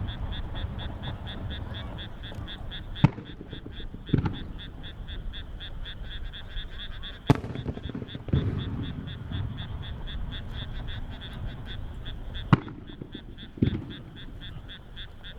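Aerial firework shells bursting: six sharp booms, coming in pairs about a second apart, each trailing off in a rumble. Under them runs a steady high-pitched chirping, pulsing about four times a second.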